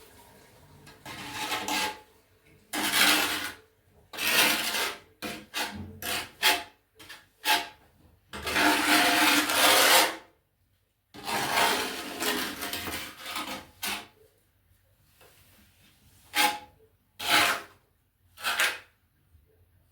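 Trowel scraping and spreading tile adhesive across the back of a tile in a run of strokes, some long and some short, with a pause near the end followed by a few quick scrapes.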